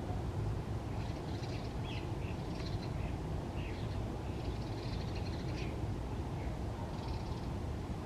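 Birds calling in short scattered bursts over a steady low wind rumble.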